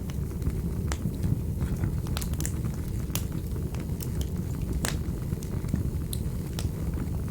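Wood fire crackling in a fireplace: a steady low noise from the flames, with sharp pops and snaps at irregular moments, the loudest about five seconds in.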